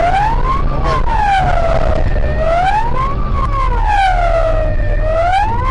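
Police car siren wailing, its tone rising and falling slowly about two and a half times, over the steady low drone of the car's engine.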